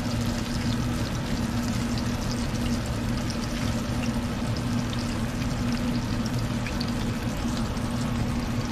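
Flour-dredged squirrel pieces frying slowly in oil at low heat in a cast iron skillet: a steady sizzle with scattered small crackles, over a steady low hum.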